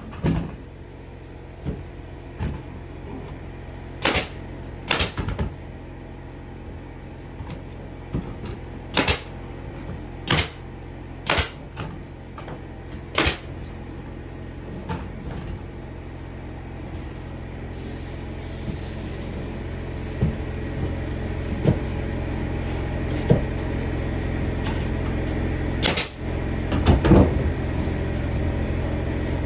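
Sharp knocks and taps at irregular intervals, over a steady low machine hum that grows louder in the second half.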